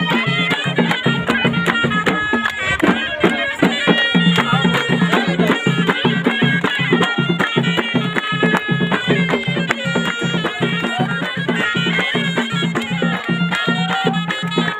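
Ghaita, the Moroccan double-reed shawm, playing a traditional melody over a steady, evenly paced drum beat.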